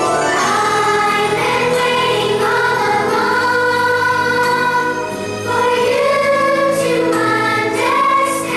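Children's choir singing long held notes to an instrumental accompaniment.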